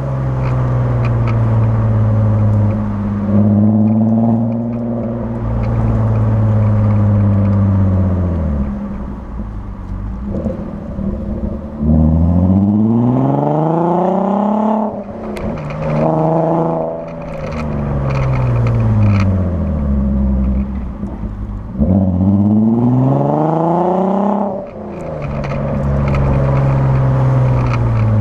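Mk5 Golf R32's 3.2-litre VR6 running through a decatted Powerflow exhaust with a Forge induction kit. The engine holds steady revs, then climbs in several rising pulls with sharp drops in pitch between them, and winds down again as it eases off.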